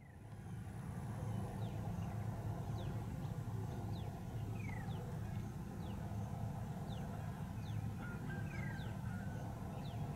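Small birds chirping in short, quick falling notes, about one or two a second, over a steady low rumble.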